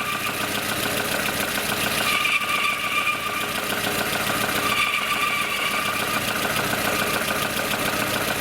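Lada Kalina engine running at idle with a high-pitched squeal from a worn belt pulley, rising and fading about every two to three seconds. The mechanics trace the noise to the timing-belt tensioner pulley and the alternator belt tensioner pulley.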